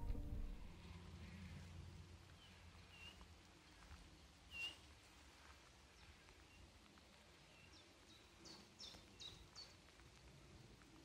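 Faint outdoor stillness with a few birds calling: scattered short chirps, the loudest about halfway through, and a quick run of four calls near the end.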